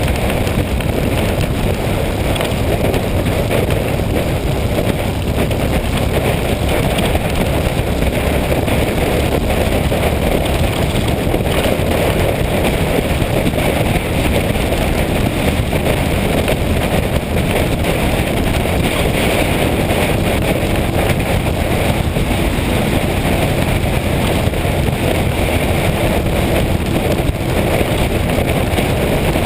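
Motorcycle being ridden at a steady speed: a continuous rush of wind over the microphone mixed with engine and road noise.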